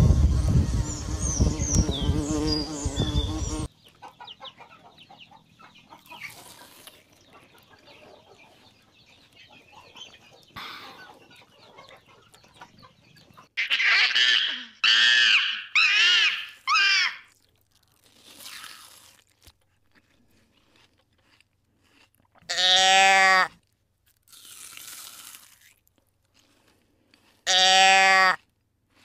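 A bumblebee buzzing for the first few seconds. Then a Barbary macaque gives four short calls that rise and fall in pitch, and later two loud calls about a second long, each come from a red deer.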